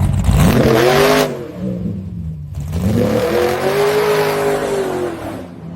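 Car engine revved twice: the pitch climbs sharply and cuts off about a second in, then climbs again more slowly, holds, and falls away near the end.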